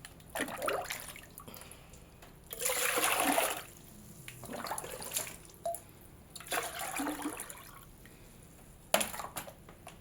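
Water poured or splashed in four bursts of about a second each, the loudest about three seconds in, followed by a short sharp splash near the end.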